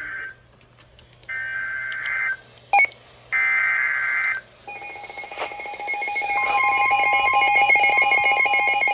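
NOAA Weather Radio Emergency Alert System SAME header: short bursts of digital data tones, each about a second long. One burst is ending and two more follow. About five seconds in, the alert tone starts and holds steady, with a second, higher tone joining a second later, signalling that a warning message follows.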